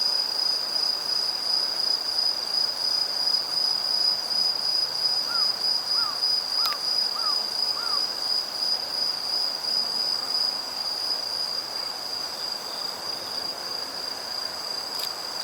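Crickets trilling in one continuous, high, even chorus. Partway through come five short, evenly spaced falling calls, plus a sharp click.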